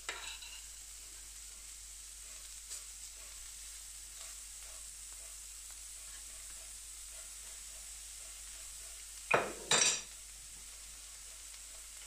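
Food frying on a carbon steel griddle: a steady sizzle with a few light clicks, broken near the end by two loud sharp sounds about half a second apart.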